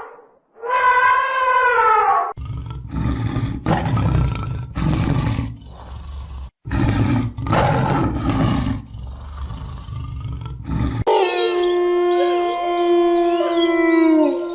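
Wild animal calls: a falling wailing call, then a series of harsh roars from about two seconds in, then several long howls overlapping near the end.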